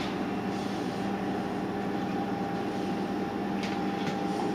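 Steady mechanical hum of a running fan or appliance in the room, with two faint short clicks near the end.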